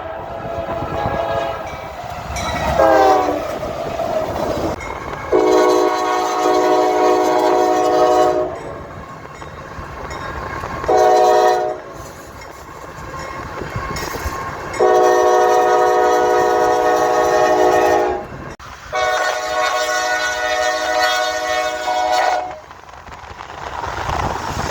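Locomotive multi-chime air horn sounding the grade-crossing signal, long, long, short, long, over the rumble of the train. About three seconds in, an earlier horn blast drops in pitch as the train passes.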